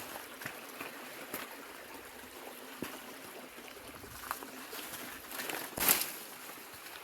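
Running stream water, a steady rushing hiss, with a few scattered knocks and snaps; the loudest comes about six seconds in.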